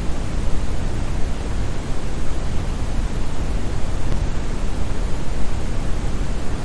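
Steady synthetic brown noise: a deep, even hiss with most of its energy in the bass and little in the treble, like a large waterfall heard from a distance.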